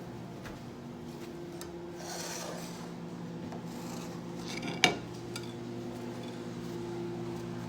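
Microwave oven running with a steady hum while a tomato heats inside, its water boiling: a brief hiss about two seconds in and one sharp snap just before five seconds.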